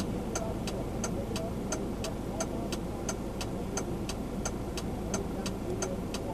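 Car turn-signal flasher ticking evenly, about three ticks a second, over the steady rumble of the vehicle in the cabin.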